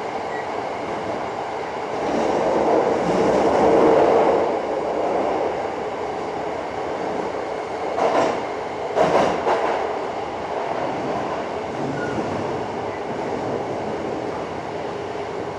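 Running noise inside a Hankyu 7300 series field-chopper-controlled train car in a subway tunnel: a steady noise of wheels on rail and motors, swelling about two to four seconds in with a steady hum. A few sharp clacks from the wheels come around eight and nine seconds.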